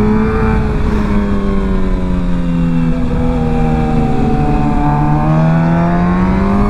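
Motorcycle engine running under way, its pitch easing down over the first few seconds and then climbing again as the throttle opens, with wind rush on the microphone.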